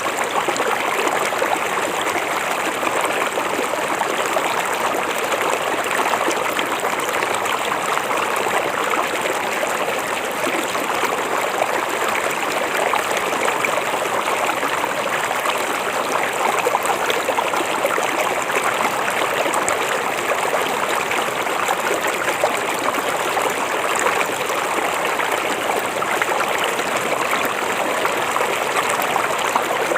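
Small river or creek flowing over rocks, a steady babbling and trickling rush of water.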